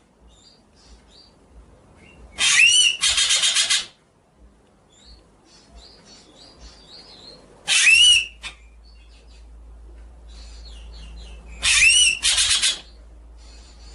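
A songbird repeating a loud phrase three times, about every four to five seconds: a rising whistled note, then a harsh, rapid rattling burst. Softer short chirps come between the phrases.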